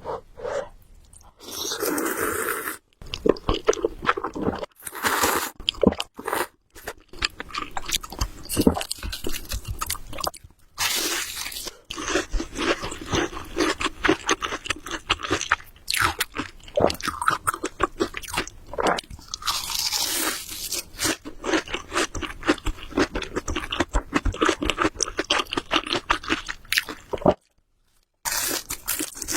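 Close-miked eating of Samyang carbonara Buldak noodles: steady wet chewing clicks and mouth smacks, with a few longer slurps.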